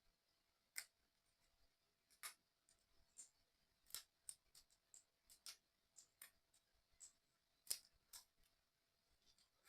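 Faint, irregular clicks and taps of small model-kit parts being handled and fitted together during assembly of a 3D excavator puzzle.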